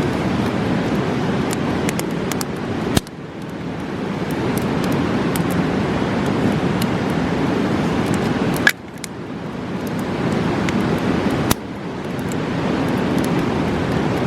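A fast mountain river rushing steadily, with sharp crackles and pops from a campfire. Three times a louder click comes with a sudden dip in the rushing, which swells back over a couple of seconds.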